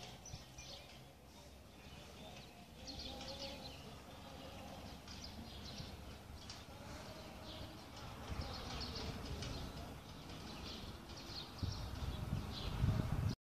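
Small birds chirping repeatedly over a low rumble, which grows loudest near the end before the sound cuts off abruptly.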